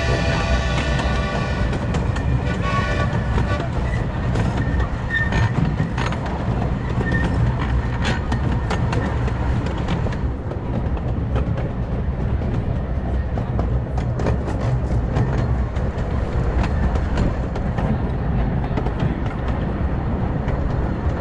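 A 15-inch-gauge miniature steam train running, heard on board: a steady rumble with scattered clicks from the wheels on the track. A pitched, whistle-like tone fades out in the first two or three seconds.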